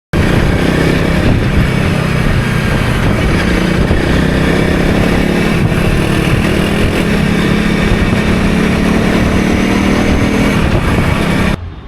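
Motorcycle engine running steadily while riding, with a rush of wind noise over it; it cuts off suddenly near the end.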